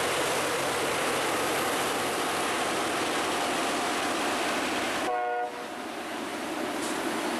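LORAM rail grinder's grinding stones working the rail, a steady dense rushing roar. About five seconds in it cuts out briefly under a short pitched note, then the grinding returns a little quieter and builds back up.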